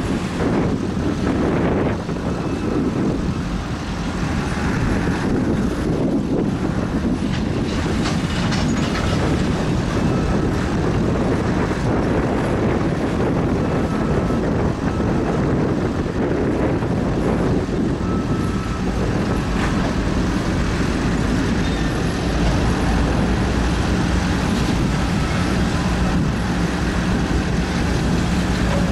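Norfolk Southern freight train's open-top hopper cars rolling past close by, a steady, unbroken noise of steel wheels running on the rails.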